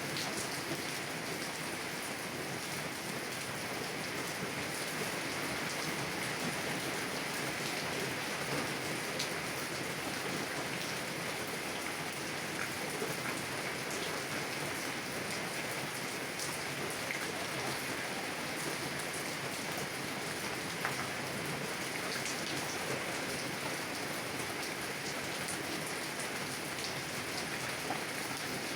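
Heavy rain drumming steadily on a car's roof and windows, heard from inside the car, with scattered individual drop ticks.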